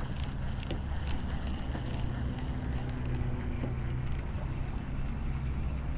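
Boat motor running with a steady low hum, with wind on the microphone and a few light clicks.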